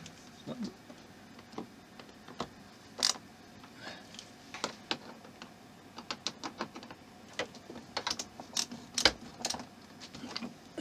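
Irregular small clicks and taps of hard plastic model parts being handled and pushed together while a gap in the display base is adjusted. The loudest clicks come about three seconds in and near nine seconds.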